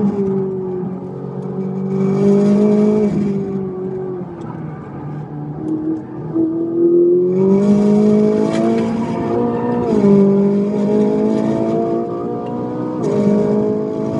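Car engine heard from inside the cabin, pulling hard at speed: its pitch climbs steadily through each gear and drops sharply at the upshifts, twice in the second half.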